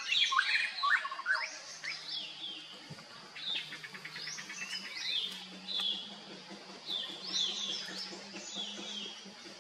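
Several birds chirping, with overlapping short rising and falling chirps and a quick trill, busiest and loudest in the first couple of seconds, over a faint low steady hum.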